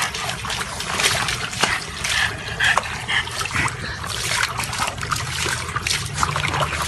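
Water splashing and sloshing in a plastic tub as a small dog paddles and thrashes in it, with irregular splashes throughout.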